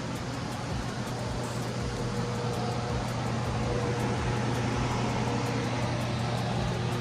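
A steady mechanical hum with a hiss over it and no sharp knocks, rising slightly in level about two seconds in.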